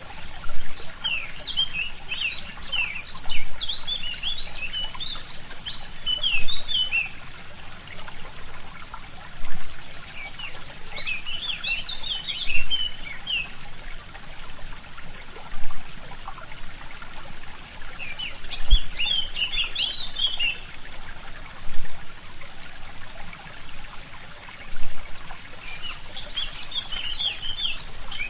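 A forest brook trickling and gurgling steadily, swelling louder about every three seconds, while a small songbird sings four bursts of rapid, high twittering song.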